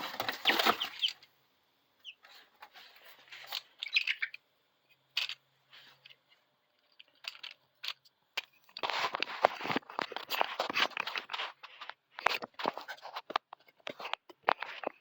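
Three-week-old chicks in a brooder: a few short peeping chirps, then bouts of rustling and scratching in the bedding with scattered clicks, the busiest stretch a little past the middle.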